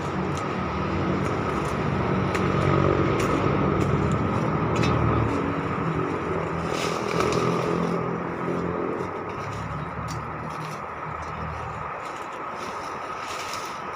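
A motor vehicle engine running with a steady low hum that drops away about twelve seconds in, with a few light clicks and scrapes.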